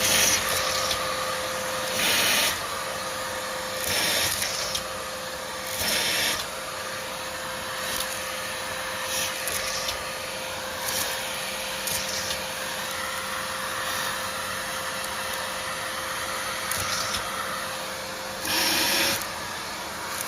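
Vacuum cleaner running with a steady motor whine under a constant rush of air. Short, louder surges of hiss come about every two seconds at first, then now and then, with a longer one near the end.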